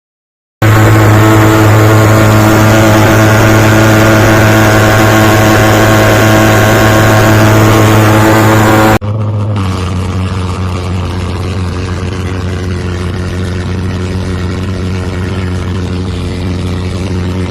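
Homemade pulse jet engine running with a loud, steady buzzing drone that starts abruptly about half a second in. About nine seconds in it cuts suddenly to a quieter, duller run of the same drone.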